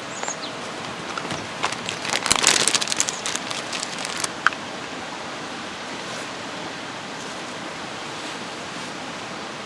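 Steady rushing of a mountain stream. A cluster of sharp clicks and knocks comes about two to four and a half seconds in.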